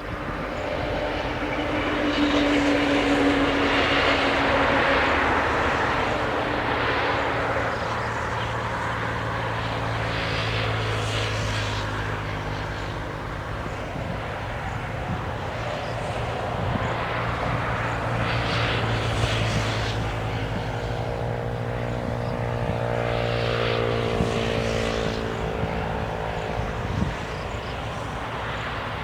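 A steady motor drone: a low hum with a stack of higher tones that slowly shift in pitch through the middle, with a few swells in loudness.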